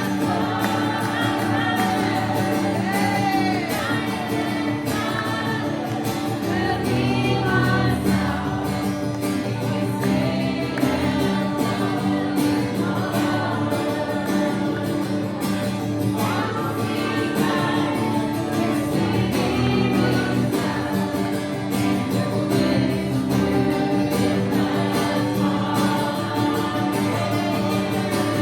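Live praise-and-worship song: several voices singing together over sustained instrumental accompaniment, without a pause.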